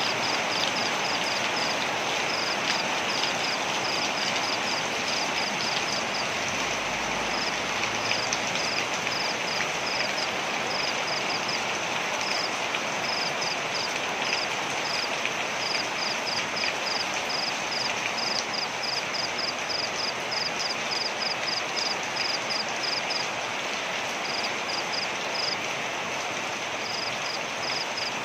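Waterfall rushing steadily. Over it, a high chirp repeats about three or four times a second in runs, with short pauses between the runs.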